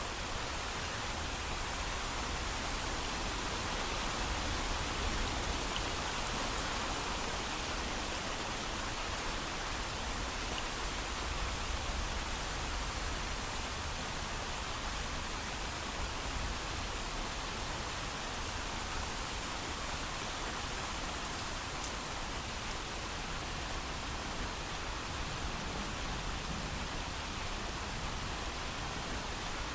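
Steady heavy rain falling, an even hiss with no thunder.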